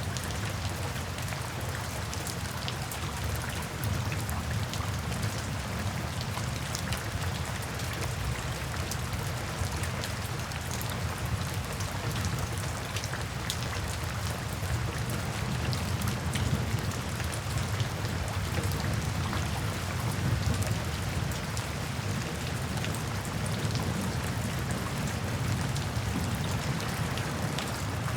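Steady rain falling into puddles and standing water, with many small drops pattering throughout and a low rumble underneath.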